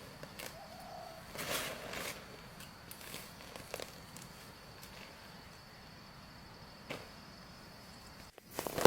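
A steady high-pitched insect trill, with scattered soft rustles and a few light clicks, the loudest about a second and a half in.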